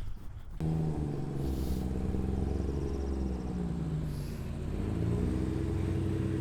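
Car engine running and revving, its pitch rising and falling several times; the sound starts abruptly about half a second in.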